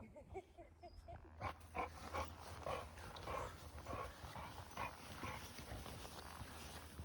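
Dog whimpering in a run of short, high whines, then a steady crunching in snow, about two crunches a second.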